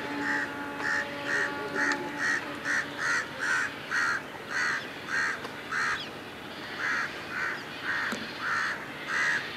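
A bird calling over and over in short, evenly spaced calls, about two a second, with a brief break a little past the middle.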